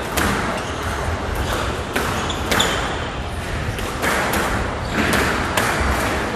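Squash rally: the ball cracking off rackets and the court walls in a string of sharp knocks, roughly one every half second to a second, echoing in the enclosed court.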